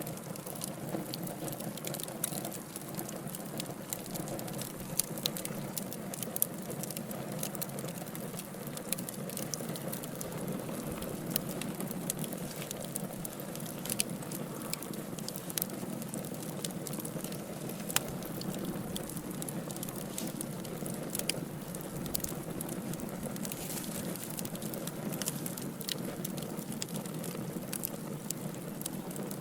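Wood fire of burning logs crackling: a steady low rush of flame with frequent sharp pops and snaps, a few of them louder than the rest.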